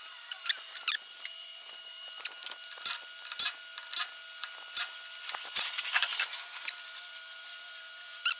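Irregular light clicks and knocks of hand tools and metal parts being handled while a truck's wheels are being taken off, roughly one or two a second, over a faint steady hum.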